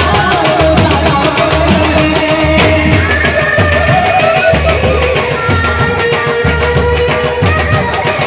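Banjo party band playing a Hindi film-song tune: a held melody line over a steady drum beat.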